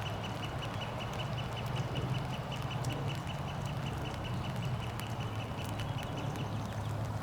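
An animal calling in a rapid, steady series of short high notes, about seven a second, over a low steady rumble.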